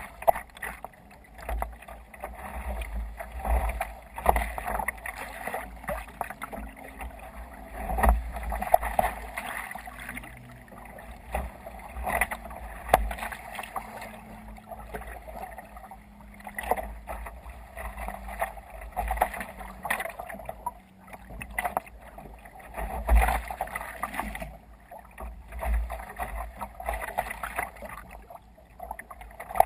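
Waves splashing and sloshing irregularly against a sea kayak's hull as it moves through choppy water, with wind buffeting the microphone in uneven gusts.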